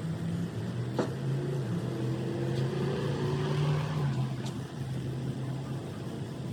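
A motor vehicle engine running, a low hum whose pitch wavers slightly, with two sharp clicks about a second in and near the middle.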